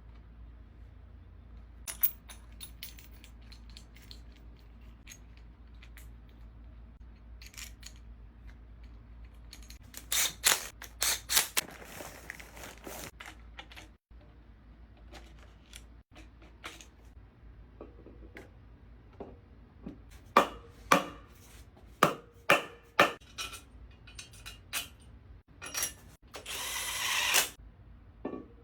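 Metal hand tools clicking and clinking against metal parts: a spell of rattling about ten seconds in, a quick run of sharp clicks after twenty seconds, and a short rasping burst near the end.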